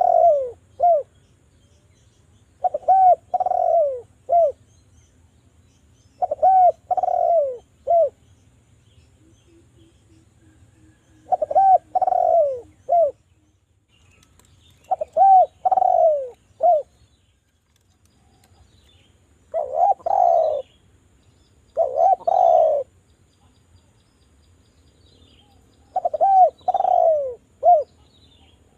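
Spotted dove (derkuku) cooing: a short phrase of three or four falling coos, repeated about every three to four seconds. The call is played as a lure to set other doves calling.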